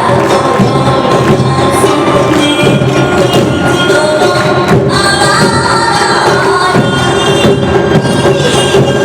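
Live awa odori music: a narimono band of drums and a clanging kane gong beating the fast two-beat rhythm under a high flute melody, with scattered voices.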